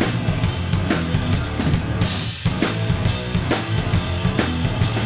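Live grunge-rock band playing, with the drum kit pounding out a steady beat of kick and snare hits over heavy bass.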